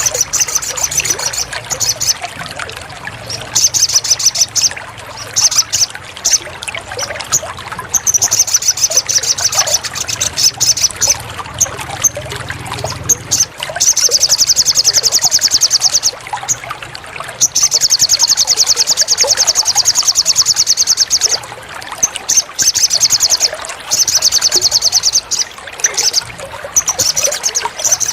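Recorded songbird song for a masteran tutoring track: long, fast trills of high repeated notes in bursts of one to four seconds, over a steady sound of trickling, running water. A low hum underneath stops about halfway.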